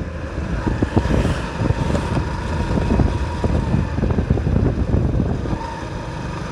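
Motorcycle engine running on the move, with a gusty rumble of wind on the microphone.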